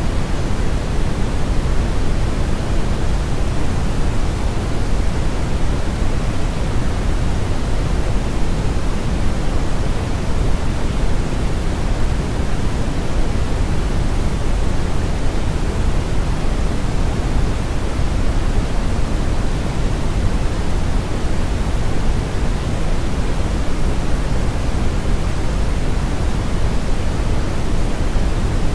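Steady brown noise: an even, featureless rumbling hiss, strongest in the low end with the highs rolled off.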